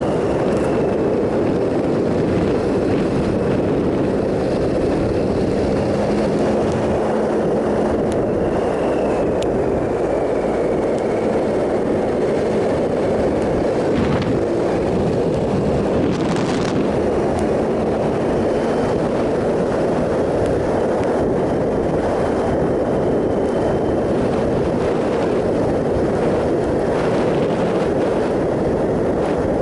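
2007 Triumph Sprint ST 1050's three-cylinder engine running under way at a steady pace, mixed with a steady rush of noise, with no marked revving or gear changes.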